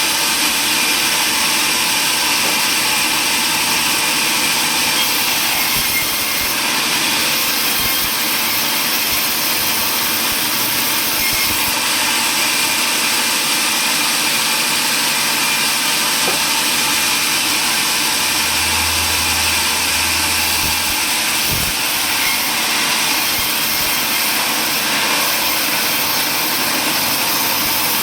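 Power saw running steadily while cutting wood: a loud, even, unbroken noise.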